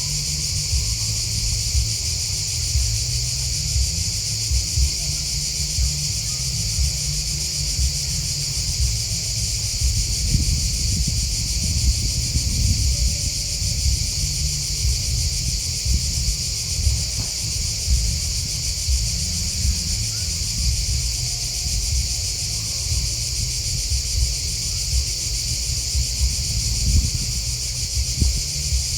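Grasshoppers and crickets chirping in a dense, unbroken high-pitched chorus, with a low rumble underneath.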